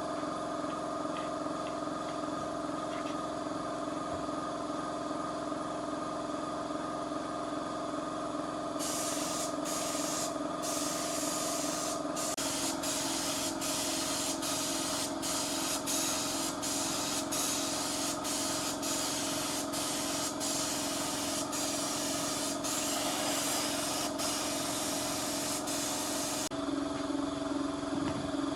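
A steady machine hum, joined about a third of the way in by a loud hiss like spraying or blowing air, which is cut by many brief gaps and stops shortly before the end.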